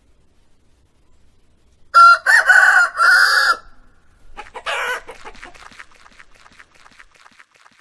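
Rooster crowing a cock-a-doodle-doo about two seconds in, followed by a run of quick clucks that fade away.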